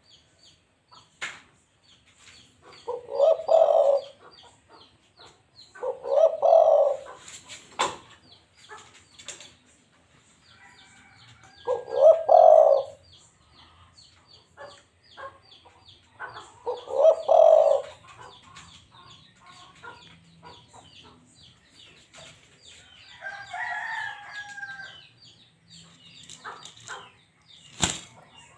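Spotted dove cooing: five phrases of about a second each, several seconds apart. Faint chirping of small birds runs underneath. A different, higher call comes near the end, along with a few sharp clicks.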